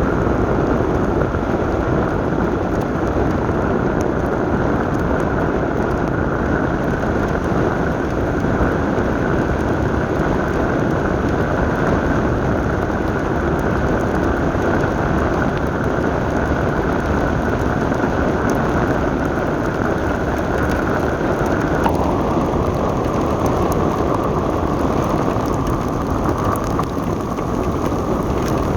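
Steady rain together with the road and engine noise of a moving vehicle, a dense, even noise; its tone drops slightly about two-thirds of the way through.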